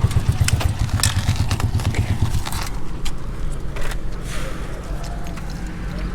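Motorcycle engine idling with a rapid low pulsing beat that drops away about two and a half seconds in, leaving a fainter rumble. Scattered clicks and scrapes throughout.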